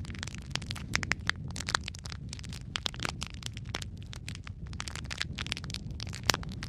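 Wood fire crackling: irregular sharp pops and snaps over a steady low rumble of the flames, with one louder pop about six seconds in.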